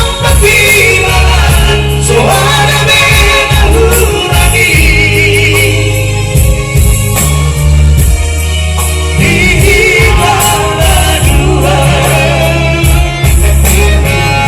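Batak pop song sung in close harmony by a vocal trio over a band, with a strong steady bass line. The held sung notes carry vibrato.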